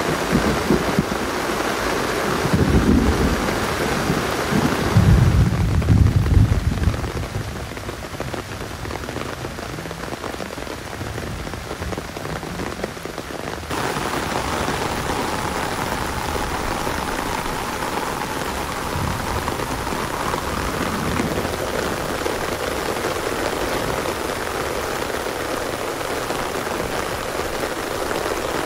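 Steady rain falling, with deep low rumbles a few seconds in. About halfway through, the rain sound changes abruptly to a brighter hiss.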